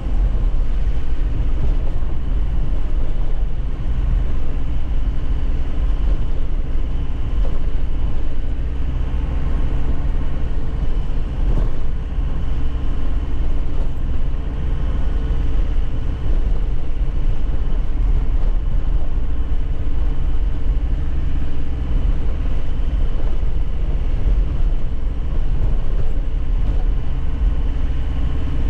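A 2001 Nissan Cabstar light truck driving, with its engine running at a steady speed under road and tyre noise.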